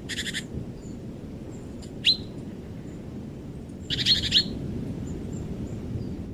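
Small songbirds calling: a short, rapid chattering burst, then about two seconds in a single sharp call sliding down in pitch, then another chattering burst about four seconds in, over a steady low background rumble.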